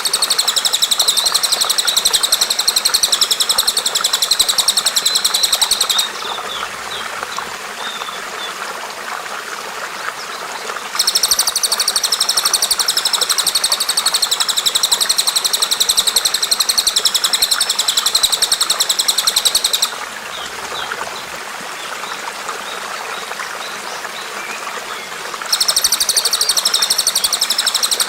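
Recorded bird calls: a loud, high, very rapid, even trill held for several seconds at a time in three long bouts, with softer busy chirping underneath throughout.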